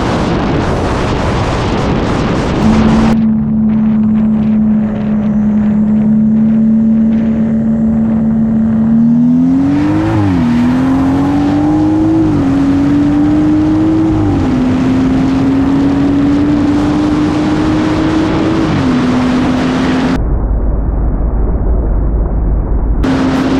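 BMW B58 turbocharged 3.0-litre inline-six held at steady revs, then pulling hard at full throttle through about three quick upshifts, the pitch climbing and dropping at each shift, before backing off. A loud rushing noise comes before the engine tone in the first few seconds.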